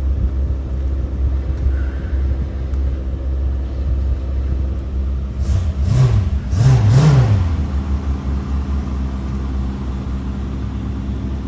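The 1990 Cadillac Sedan DeVille's 4.5-litre fuel-injected V8 idling, heard from inside the cabin as a steady low rumble. About six seconds in there is a brief louder sound with two quick rise-and-fall swells in pitch.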